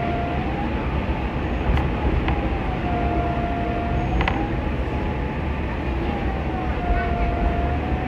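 Interior running noise of a KiHa 40-series diesel railcar: a steady low rumble with a few sharp clicks from the wheels and track, and a faint tone that slowly wavers up and down.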